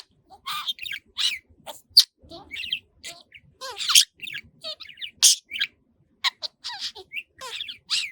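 Budgerigar chattering: a quick, uneven string of short chirps, squawks and warbles, with a brief pause about six seconds in.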